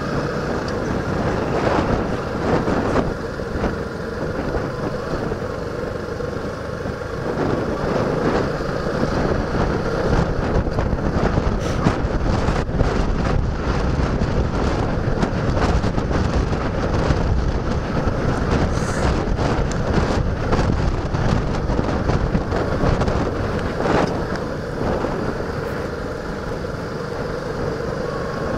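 Suzuki Gixxer motorcycle engine running steadily while being ridden, with wind rushing over the microphone and a spell of short crackles about halfway through.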